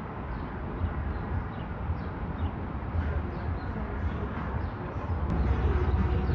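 A steady low rumble with faint bird chirps over it; the rumble grows louder about five seconds in.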